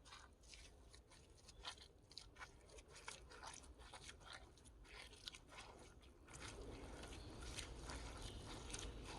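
Bare feet walking on a muddy forest floor: faint, irregular crunching and crackling steps. A low rumble comes in about six seconds in.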